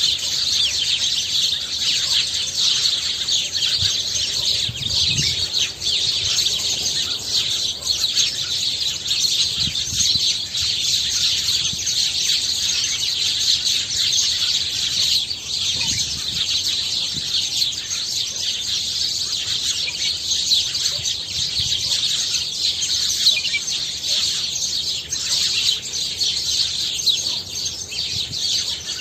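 Many small birds chirping at once in a dense, continuous chatter.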